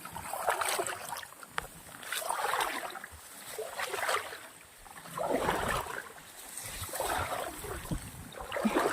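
Floodwater in a rice field sloshing and splashing in repeated surges, about one every second and a half.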